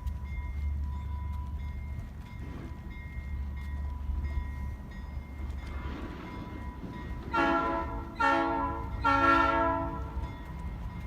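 Alco S-6 diesel switcher locomotive idling with a steady low rumble, then sounding its horn in three short blasts about seven seconds in, the last blast a little longer.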